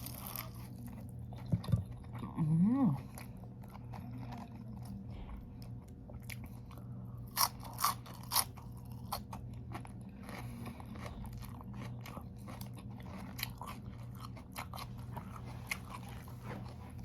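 A person eating close to the microphone: bites and crunchy chewing of lettuce, carrots and chicken, with a few sharper crunches about halfway through. A brief hummed 'mm' comes about two and a half seconds in, over a steady low hum.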